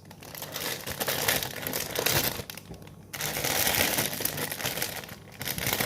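Plastic mushroom packaging crinkling as it is handled and opened, in uneven stretches with a couple of short pauses.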